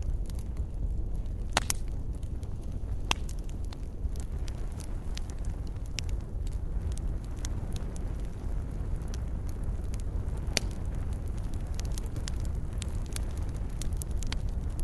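Fireplace fire crackling: many small clicks and a few sharper pops over a steady low rumble. The louder pops come about one and a half seconds, three seconds and ten and a half seconds in.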